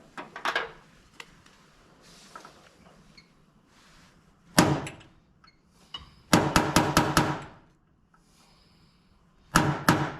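A hammer striking a steel punch: a single hard blow, then a quick run of about six blows, then two more near the end, each with a short metallic ring.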